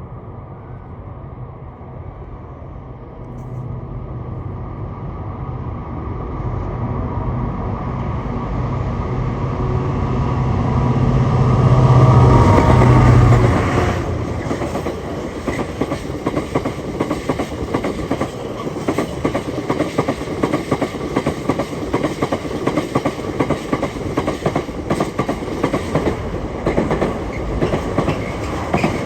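Class 66 diesel-electric freight locomotive with its EMD two-stroke V12 engine, droning louder as it approaches and loudest as it passes a little before halfway. Then a long rake of freight wagons goes by with a fast, rhythmic clickety-clack of wheels over the rail joints.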